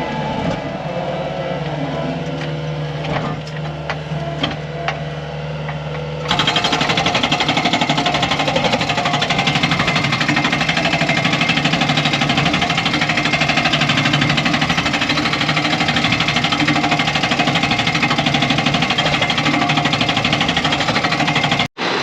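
A truck engine running steadily, with a few light clicks. About six seconds in, it gives way abruptly to a loud, fast, even mechanical rattle, which cuts off sharply near the end.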